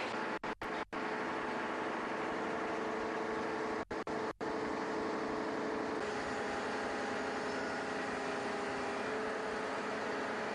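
An engine running steadily, with a few held tones over a noisy rumble. The sound cuts out for a split second several times, about half a second in and again about four seconds in.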